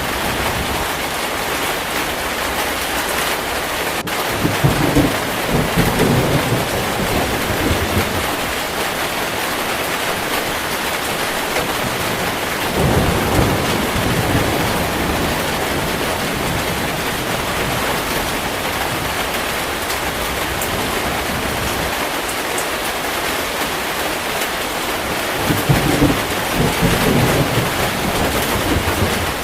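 Heavy rain falling steadily, with three low rolls of thunder: one about five seconds in lasting a few seconds, a shorter one around thirteen seconds, and another near the end.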